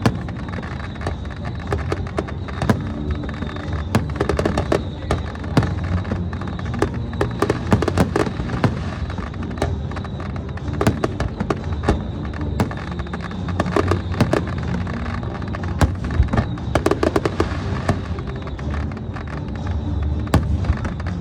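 Fireworks display: many shells bursting in quick succession, irregular sharp bangs over a continuous low rumble.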